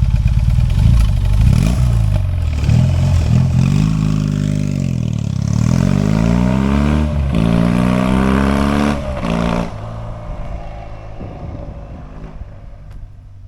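BMW R18's 1,802 cc boxer twin through modified fishtail exhaust pipes, revving and accelerating. The pitch climbs several times with short breaks between the climbs, as at gear changes. It drops away abruptly about three-quarters of the way through and fades.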